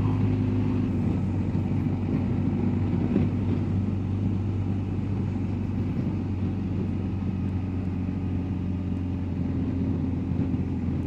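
BMW R1250GSA's boxer-twin engine running at a steady cruise, with wind and road noise over it.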